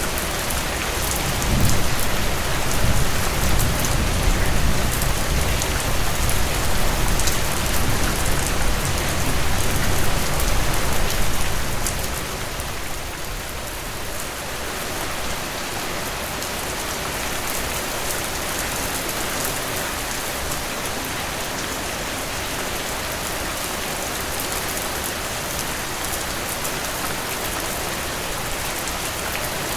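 Heavy rain pouring steadily as a dense hiss. A deep rumble of thunder swells about two seconds in and rolls on for some ten seconds before fading away.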